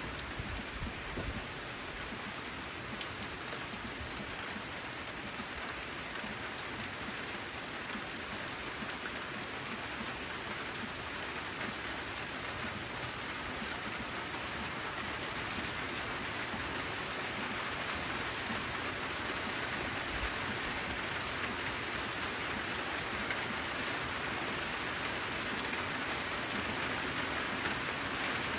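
Steady rain with individual drops ticking through it, growing a little heavier toward the end.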